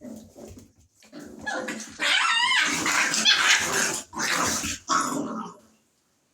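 American pit bull terrier puppies play-fighting, with a burst of loud growling, yelping and barking that peaks in the middle and dies away just before the end.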